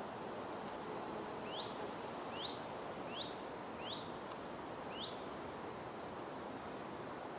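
Forest birds calling over a steady background hiss. One bird repeats a short rising note about once a second. Another gives a high falling trill at the start and a quick run of high notes about five seconds in.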